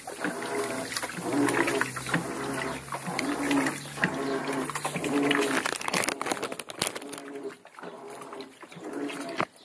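Electrolux LM 08 top-loading washing machine agitating a full load: a motor whine that swells and fades in an even rhythm, about one and a half times a second, with a low hum underneath that drops out about halfway through.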